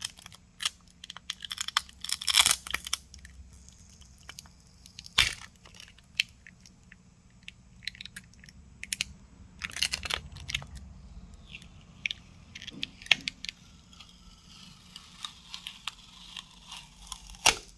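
Scattered crackles, crinkles and sharp clicks of a Samsung Galaxy Z Flip 5 battery being pulled up by its plastic pull tab and peeling off its adhesive, with louder clusters about two and a half, five and ten seconds in and near the end.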